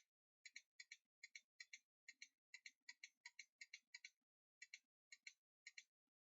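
Quiet, irregular clicking at a computer, about two to three clicks a second, each a quick double snap of press and release, with a short pause about four and a half seconds in.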